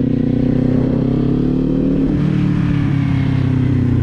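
Kawasaki Z400 motorcycle's parallel-twin engine running at low, steady revs while riding slowly, its pitch rising a little about halfway through and then easing back.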